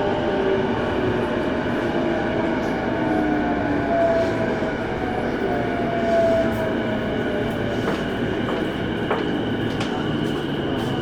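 Keiyo Line electric train running at speed, heard from inside the passenger car: a steady rumble of wheels on rail, with motor whine tones gliding slowly in pitch. A few sharp clicks come near the end.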